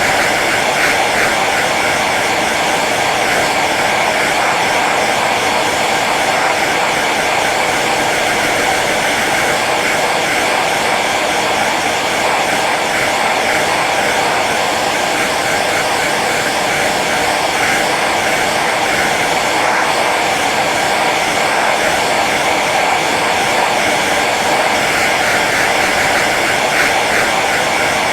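Hair dryer running steadily on its low setting: an even blowing hiss with a faint motor whine that does not change.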